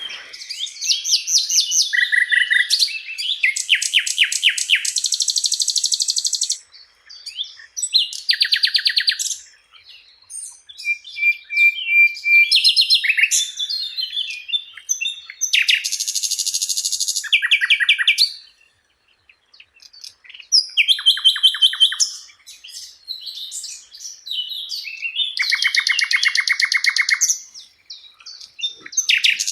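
Sikatan londo flycatcher singing a long, varied song of rapid high trills, buzzy rattles and short whistled notes, in phrases broken by brief pauses.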